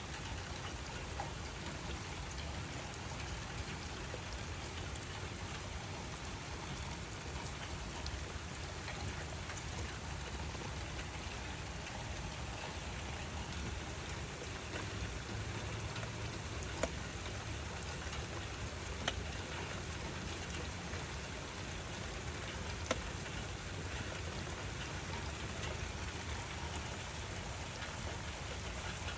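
Steady rain falling, with three sharp louder drop ticks in the latter half.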